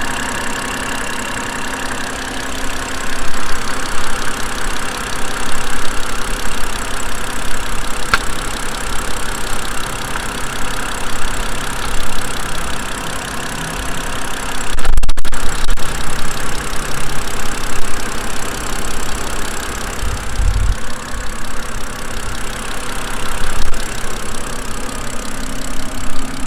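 BMW 328i's straight-six engine idling steadily, with a couple of low thumps about halfway through and again near the end.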